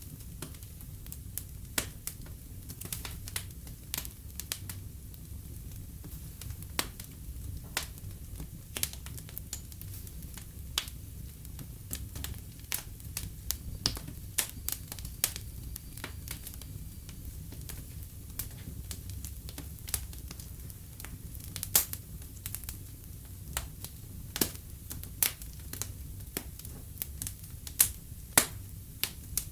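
Wood fire in a fireplace crackling, with frequent irregular sharp pops over a low steady rumble of the flames; a few louder pops come about two-thirds of the way through and near the end.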